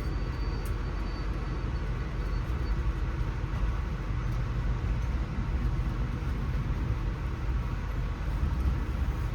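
Amtrak passenger train running along the track, heard from on board as a steady low rumble.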